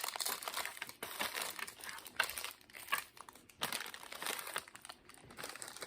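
Plastic candy bar wrapper crinkling in irregular crackles as it is handled and opened.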